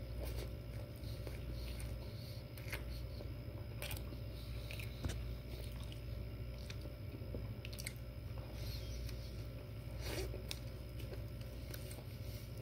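Close-up chewing and biting of a sausage-and-egg breakfast sandwich on a cinnamon-roll bun, with scattered soft mouth clicks and smacks over a steady low hum.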